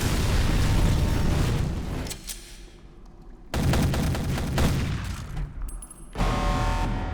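Action-film battle sound effects: heavy gunfire and booms with a film score underneath. The noise comes in two loud bursts, dropping away for about a second after two seconds in and dipping again near six seconds.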